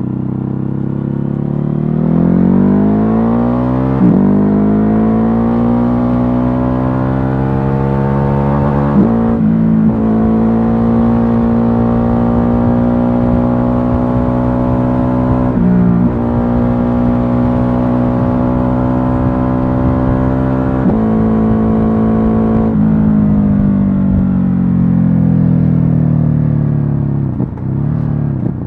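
Ducati Hypermotard 950's 937 cc L-twin engine on the move, revving up through the gears with short breaks at each gear change. It holds a steady pitch at cruise for about ten seconds, then its pitch falls as the bike slows near the end.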